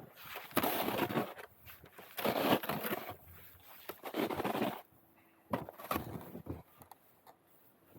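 Roof rake dragging snow off a roof: three long scraping, crunching pulls of about a second each, then a few short crunches in the snow.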